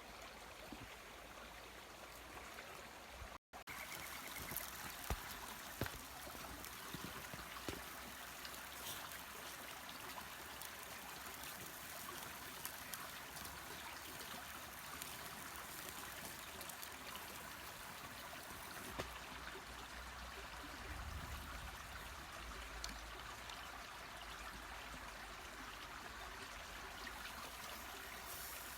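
Mountain stream running steadily, with a few faint clicks and a split-second break about three seconds in.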